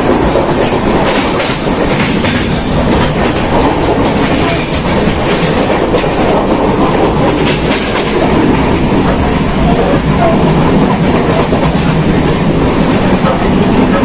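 Passenger train running at speed, heard at an open coach door: a steady loud rumble of wheels on rails, with the irregular clatter of wheels over rail joints.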